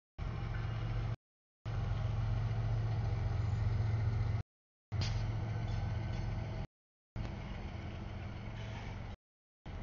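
Freight train cars rolling past a grade crossing: a steady low rumble of wheels on rail, with a sharp metallic clank about five seconds in. The sound cuts out to total silence four times for a fraction of a second each.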